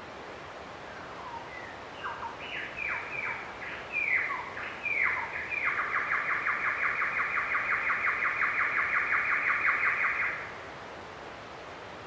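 A bird singing: a run of short notes, each sweeping downward, then a long, fast, even trill that stops abruptly. A steady background hiss of natural ambience runs under it.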